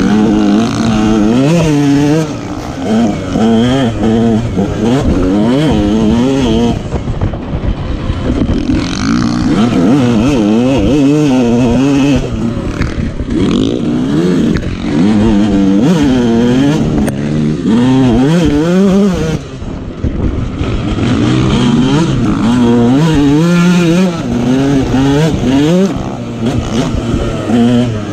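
Motocross dirt bike engine revving hard, its pitch climbing and falling again and again as the rider works the throttle and gears, with a few short drops where the throttle is shut off.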